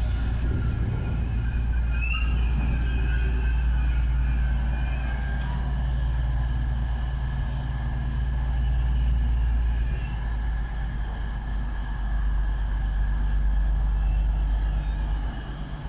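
A train running with a steady low rumble and a faint steady high whine.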